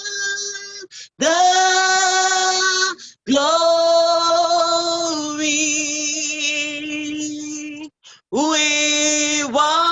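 A woman singing a slow worship chorus in long held notes with a light vibrato, breaking briefly between phrases.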